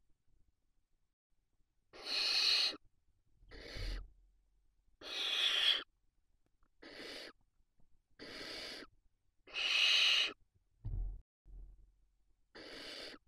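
Barn owl giving a string of seven rasping, hiss-like screech calls, each under a second long, with gaps of about a second between them. Two dull low thumps come near the end.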